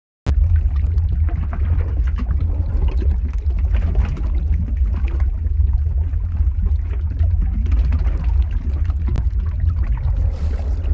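Lava-flow ambience sound effect: a steady low rumble with dense crackling and sizzling over it. It drops out to silence for an instant at the very start, then resumes.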